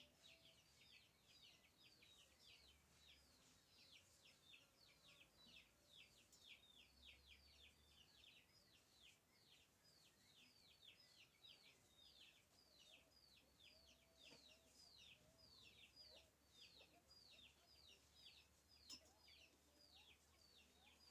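Faint, steady bird chirping: short high notes that slide downward, repeated about two to three times a second without a break. A single faint click comes near the end.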